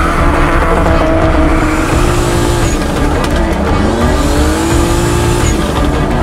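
Car engine running hard under a drift, its pitch dipping about four seconds in and then climbing again as it revs back up, with tyres squealing.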